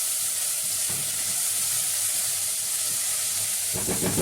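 Grated carrot, bell pepper and peas sizzling steadily as they fry in hot ghee in a pot.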